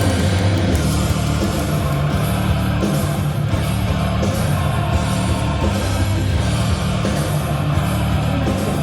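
Loud rock music with electric guitar played over a baseball stadium's PA system.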